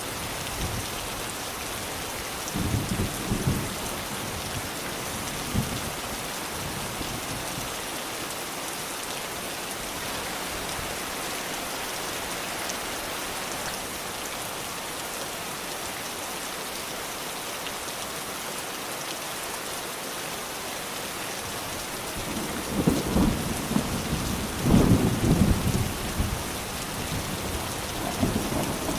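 Steady rain falling on surfaces, with low rumbles of thunder: a short one about three seconds in and a longer, louder rolling rumble near the end.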